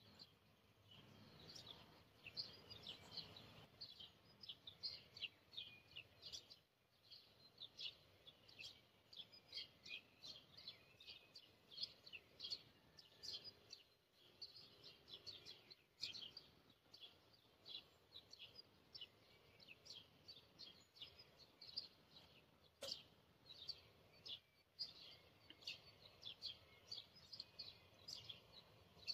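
Faint, rapid chirping of small birds, many short high chirps a second, keeping on without a break.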